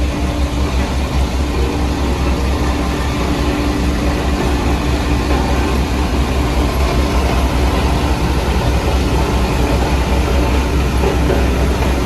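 Heavy diesel construction machinery running steadily, with a loud, deep, even rumble and no change in speed.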